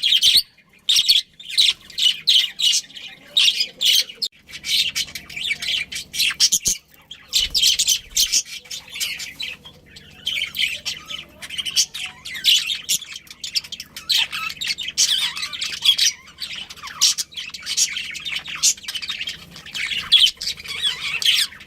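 Budgerigars chirping and chattering in rapid runs of short, high calls, broken by brief pauses.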